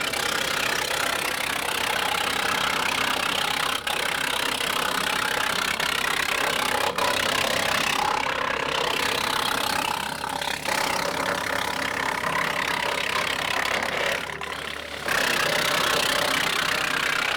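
An engine running steadily. The high end thins briefly about eight seconds in and again about fourteen seconds in.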